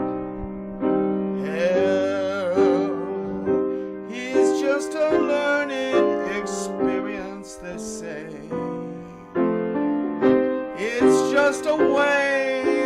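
Improvised piano playing: sustained chords struck in phrases, with a wavering line that sings with wide vibrato over the top in several passages.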